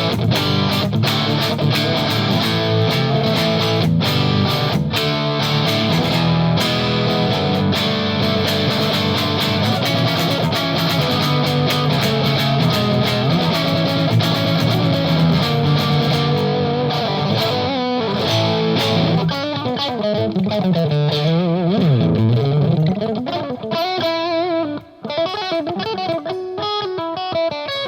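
Electric guitar on its neck humbucker played through an EarthQuaker Devices Palisades overdrive set to Gain A: overdriven chords and riffs, then bent notes, and clearer single notes near the end.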